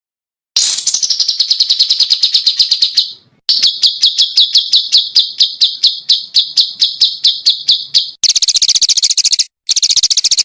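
Small songbirds singing rapid-fire 'tembakan' trills: long runs of quickly repeated high notes, several a second. The runs are broken by brief gaps, and the last two are faster and buzzier.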